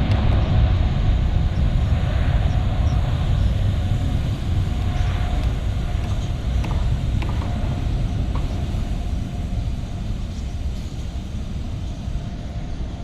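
Jet airliner engines after takeoff: a steady low rumble that slowly fades.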